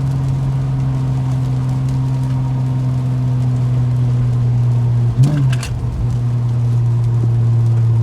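Car exhaust droning at a steady low pitch while cruising; about five seconds in the pitch briefly jumps and drops, like a gear change, then settles steady again.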